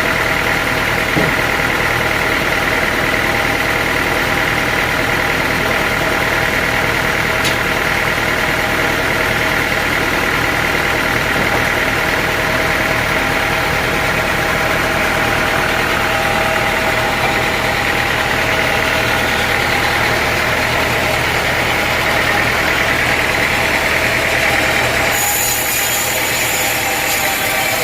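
Sawmill machinery running steadily with a constant engine-like hum. About 25 seconds in the sound changes: the low hum drops back and a higher hiss comes in.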